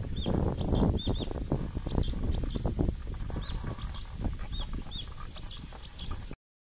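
Birds calling with short, high, arching chirps, often in pairs, about two a second, over the low rumble of wind on the microphone. The sound cuts off abruptly about six seconds in.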